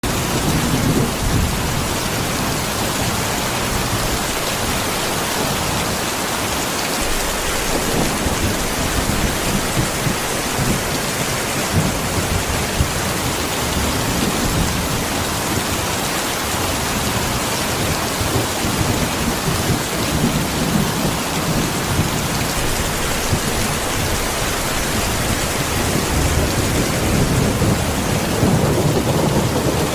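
Heavy rain pouring steadily, a dense even hiss with uneven low rumbles underneath that swell a little louder near the end.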